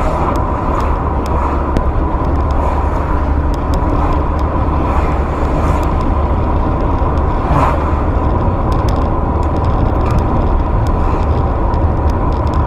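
Car engine and road noise heard from inside the cabin while driving: a steady low rumble with a thin steady whine above it and a brief swell about eight seconds in.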